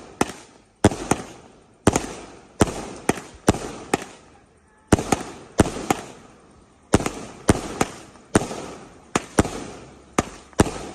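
Fireworks going off in a rapid series of sharp bangs, about two a second, each fading away after it, with a short lull about four seconds in.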